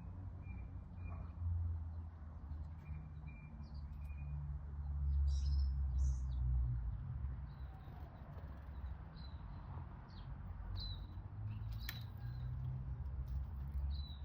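Small birds chirping in short, scattered high chirps, over a low rumble that swells in the middle.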